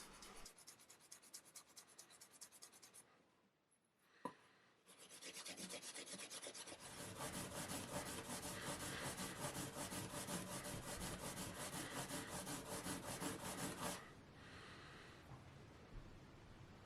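Abrasive Scotch pad rubbed quickly back and forth over a small salvaged knob to polish it, in rapid scratchy strokes. About three seconds in there is a short pause with a single click, then steadier, louder rubbing that eases off near the end.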